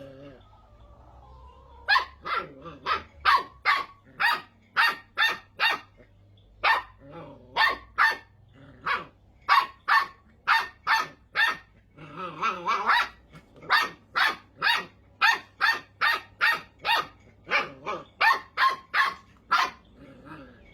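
Puppy barking over and over in short, sharp barks, about two a second, after a pause of a couple of seconds at the start.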